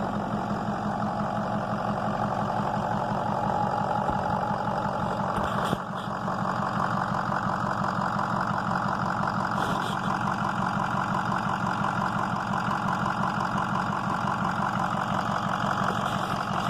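Ford 6.0 Power Stroke V8 turbo-diesel, a freshly installed used engine warmed up to operating temperature, idling steadily and running smooth.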